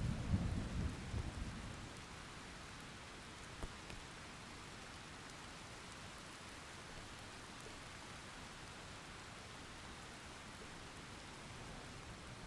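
Steady rain falling, with a low rumble of thunder fading away in the first two seconds.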